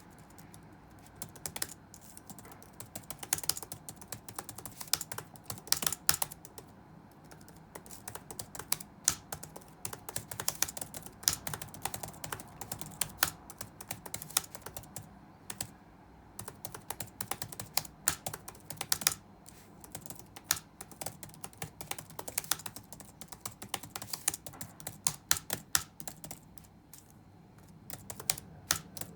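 Touch-typing on a computer keyboard: quick runs of key clicks with short pauses between runs, over a faint steady low hum of room ambience.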